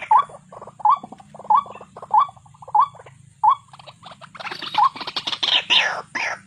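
White-breasted waterhen calling: a short rising note repeated about every two-thirds of a second, joined about four and a half seconds in by a louder, harsher run of calls, some falling in pitch.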